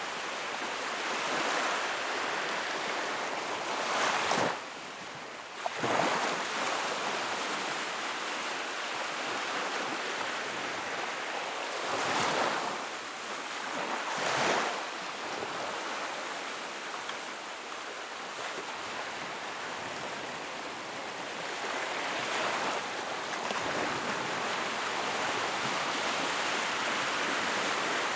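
Sea waves breaking: a continuous wash of surf that swells louder every few seconds as waves come in.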